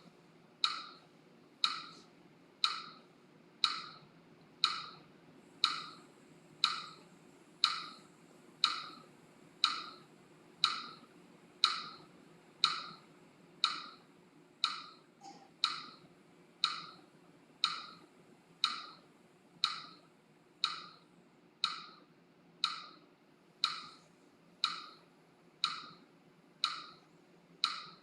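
Metronome ticking evenly at about one beat a second, each tick sharp and quickly dying away, setting the pace for the breathing.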